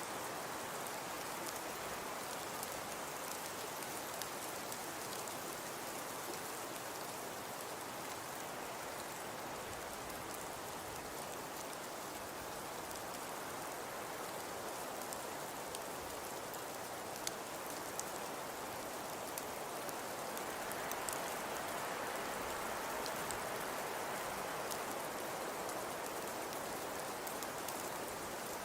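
Crackling fireplace: a steady hiss with scattered small pops and snaps.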